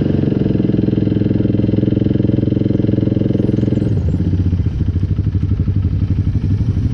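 ATV engine running steadily, then dropping to a lower, pulsing idle about four seconds in.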